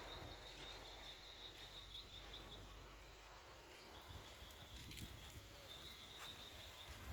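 Faint outdoor ambience with an insect's high, rapidly pulsing trill. The trill stops for about a second and a half midway, then resumes, and a couple of faint ticks come near the end.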